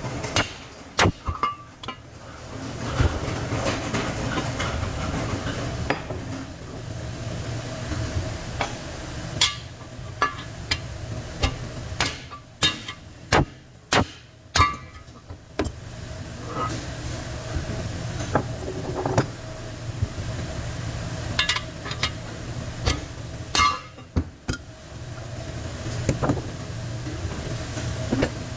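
Irregular metal knocks and taps from hand tools working on a dynamo during disassembly, over a steady low workshop hum.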